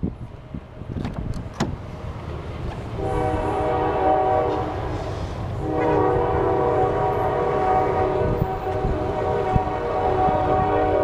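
Multi-note horn sounding a long sustained blast from about three seconds in, with a short break near the middle, over a low rumble; a few clicks come just before it.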